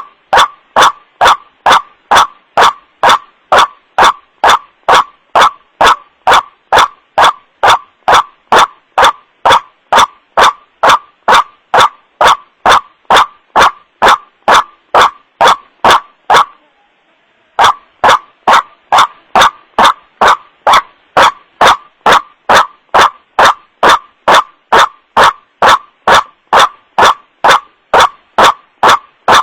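White-breasted waterhen (wak-wak bird) calling as a played-back lure: a loud 'wak' note repeated about twice a second, distorted by clipping. The calling stops for about a second past the middle, then resumes at the same pace.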